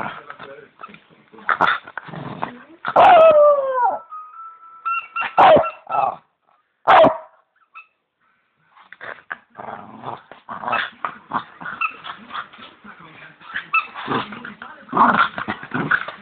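Bichon dog playing with a squeaky toy bone: sharp high squeaks from the toy, one held steady for about a second, mixed with short yips, barks and scuffling. There is a brief quiet pause in the middle.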